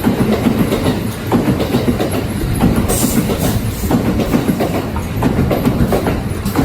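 Kintetsu electric train passing close by, its wheels clattering rhythmically over the rail joints under a steady rumble, with a brief high hiss about three seconds in.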